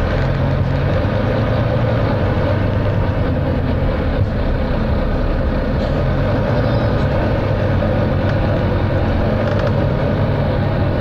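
Volvo B9TL double-decker bus's six-cylinder diesel engine running steadily, heard from on board with road and body noise.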